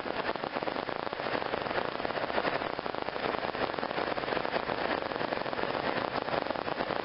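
Minivan's dashboard blower fan running on high: a steady rushing hiss in the cabin.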